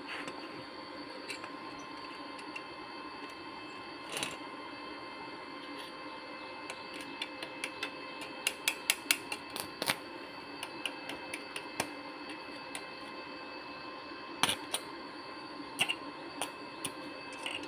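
Scattered small hard clicks and taps of tools and parts being handled, with a quick run of them about eight to ten seconds in and a few louder knocks near the end. A faint steady hum runs under them.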